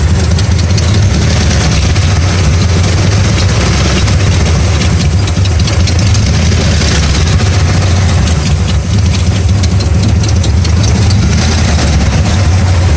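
1994 Dodge Ram's 5.9-litre gasoline V8 idling steadily with small uneven dips in level. The truck has a rough-idle and backfiring fault that the owner traced to a failing crankshaft position sensor.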